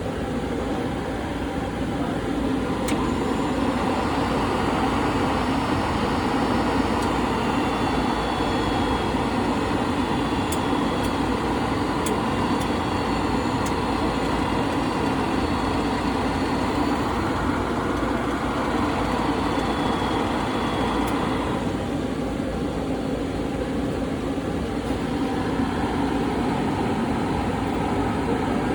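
Parker Majestic 6" x 18" reciprocating surface grinder running under power, a steady machine noise with a few faint clicks. The higher part of the sound drops away about 21 seconds in.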